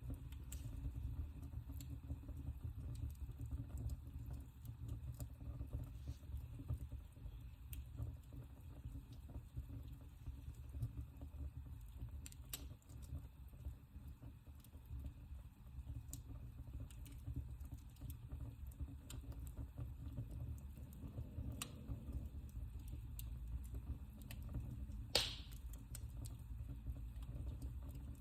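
Wood fire burning in a fireplace: a steady low rumble of flames with scattered small crackles and pops, and one sharper, louder crack about 25 seconds in.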